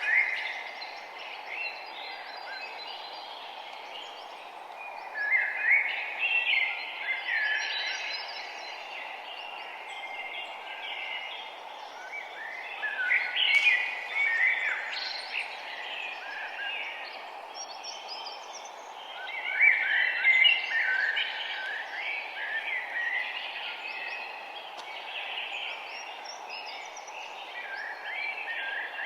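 Songbirds chirping and singing in several bursts of rapid high notes, over a steady background hiss.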